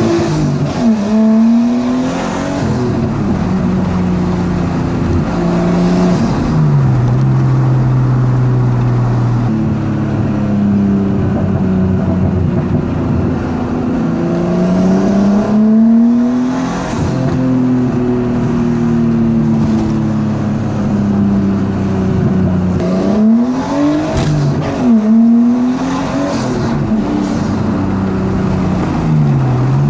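Nissan Skyline R33's straight-six engine through a straight-pipe exhaust with the rear muffler deleted, being driven and revved hard: the engine note climbs and drops again and again as it pulls through gears. Near the end there is a quick run of short revs.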